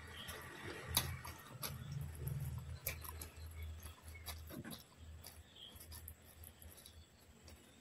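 Close-miked eating sounds: chewing with wet smacks and sharp little mouth clicks, as someone bites into and chews a mouthful of curry-soaked food eaten by hand. A soft low rumble of chewing underlies the first few seconds, then fades.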